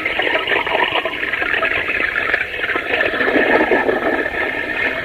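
Dense, continuous noise with a thin, narrow-band sound like a radio transmission, with no clear speech or tune in it.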